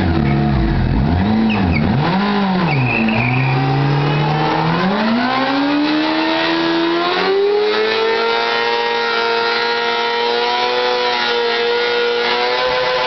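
Honda CBR600RR inline-four revved in several quick blips, then climbing to high revs and held there steadily for several seconds during a rear-tyre burnout.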